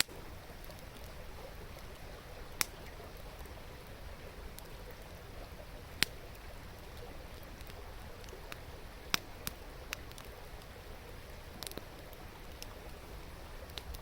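Wood campfire crackling, with sharp single pops every few seconds and a quick cluster of smaller ones, over the steady rush of a stream.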